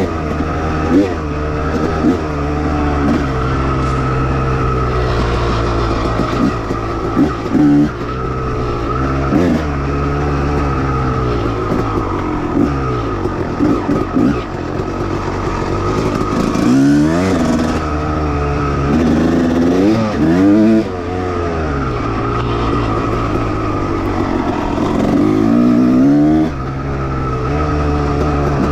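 1989 Honda CR250R two-stroke single-cylinder motocross engine revving up and down, its pitch rising sharply several times as it is opened up and then dropping back.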